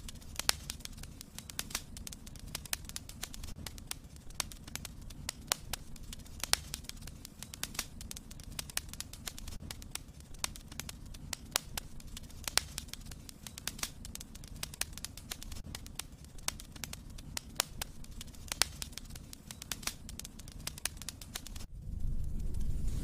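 Wood fire in a fireplace crackling, with irregular sharp pops and snaps over a low rumble of flame. Shortly before the end the crackling cuts off abruptly and a louder, steady hiss starts.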